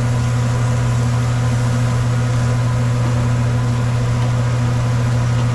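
A steady, unchanging low hum with faint higher tones above it, like a running machine.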